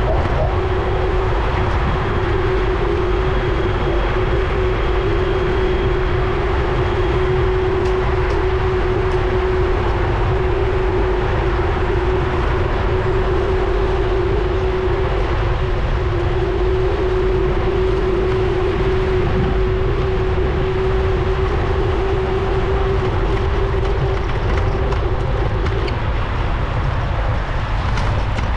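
Wind rumbling on a GoPro's microphone while cycling, with a steady hum that fades out near the end.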